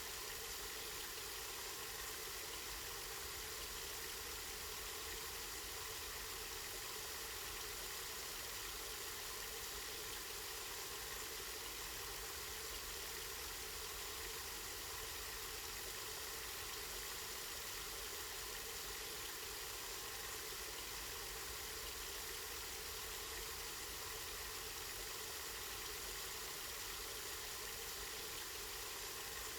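Spring water flowing and splashing steadily, an even hiss without breaks.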